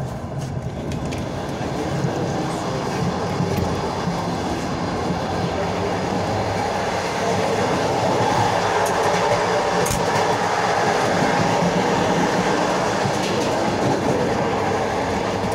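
Regional passenger train running, heard from inside a carriage: a steady rolling rumble of wheels on rails that grows louder over the first half and then holds, with a brief sharp tick near the middle.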